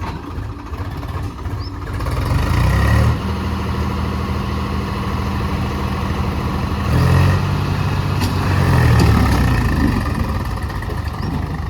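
Swaraj tractor's diesel engine running under load with a loaded trolley in mud, revving up louder about two seconds in and again for a couple of seconds past the middle.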